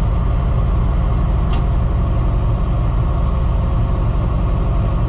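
Tractor engine running steadily at a constant speed, a deep even rumble, with one faint click about one and a half seconds in.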